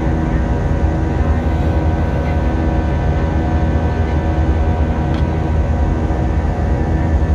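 Airbus A320's IAE V2500 turbofan engines and rushing airflow, heard inside the passenger cabin as a steady, loud drone with a constant whine over a deep rumble.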